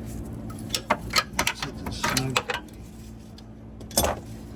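Metal tools and hardware clinking and knocking during work on a bus seat's shock dampener mount: a quick run of clicks about a second in, a short scraping rattle, then one loud knock near the end, over a steady low hum.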